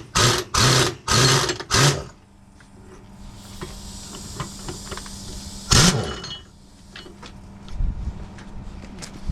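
Impact wrench rattling in several short bursts on the track bolts, then a high hiss of air for a couple of seconds and one more short burst about six seconds in.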